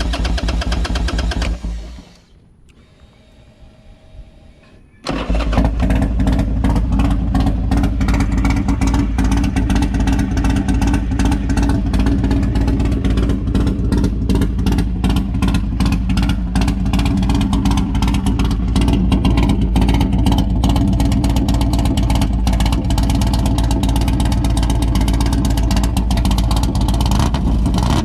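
Buell XB9R's air-cooled V-twin running with a rapid, pulsing exhaust beat. It drops away for about three seconds near the start, then comes back in loud and keeps running steadily.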